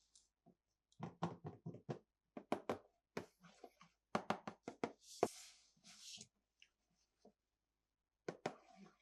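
Hard plastic toy pieces being handled and set down: a run of quick clicks and knocks in clusters, with a couple of brief rustles near the middle.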